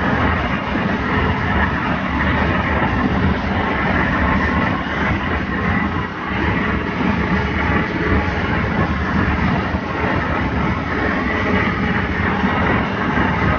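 Bus driving at speed: a steady drone of engine and road noise with no let-up.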